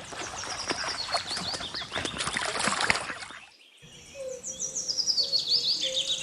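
Ducklings peeping: many short, high, downward-sliding peeps over a noisy background. A brief drop-out a little over three seconds in is followed by a denser, clearer run of peeps.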